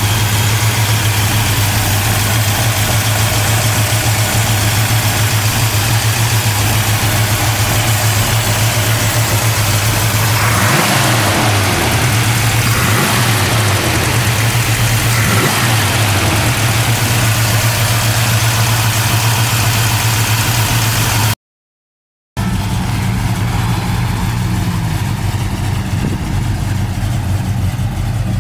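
A 1967 Ford Mustang's 302 cubic-inch V8 idling steadily, its pitch rising and falling a few times around the middle as the throttle is blipped. The sound cuts out for about a second near three-quarters through, then the engine is heard running again.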